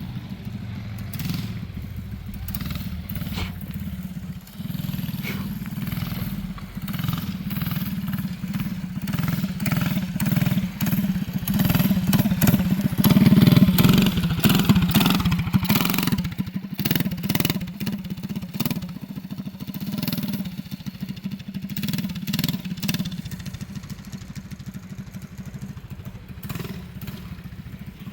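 Mini bike's small engine running under a ride, with its speed rising and falling; the sound gets louder toward the middle, peaking about halfway through, then fades.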